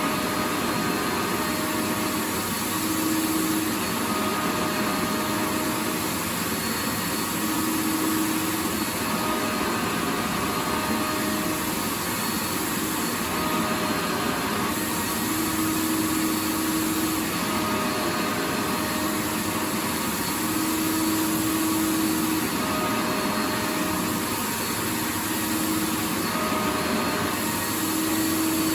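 Vacuum cleaner running continuously: a steady, dense rushing noise with a faint motor hum that swells and fades every second or two.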